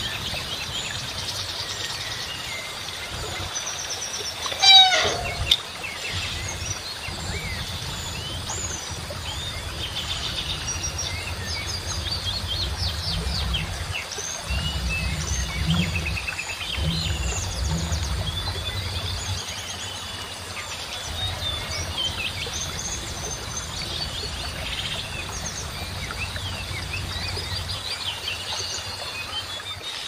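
Several birds chirping and calling over one another, with one louder call about five seconds in that falls steeply in pitch. A low rumble comes and goes underneath.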